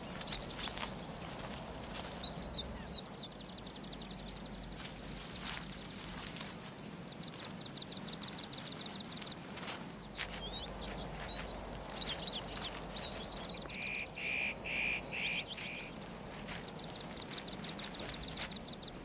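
Forest birds singing: several fast trills of rapid high notes and scattered chirps, with a run of four lower, evenly spaced calls a little past the middle.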